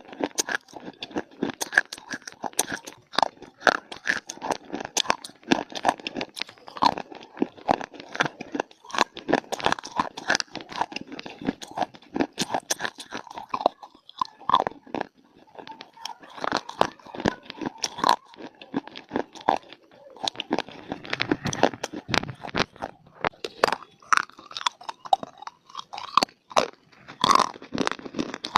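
Close-up crunching and chewing of dry, brittle clay: rapid, irregular crunches from bites and chews, with a short lull about halfway through.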